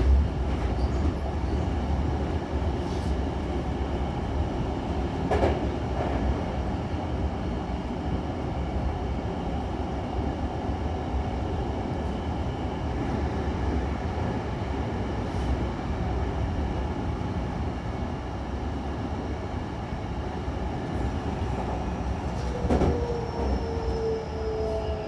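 Hankyu Takarazuka Line train running between stations, heard from inside the car: a steady rumble of wheels on rail with a couple of sharp clicks. Near the end a falling whine sets in.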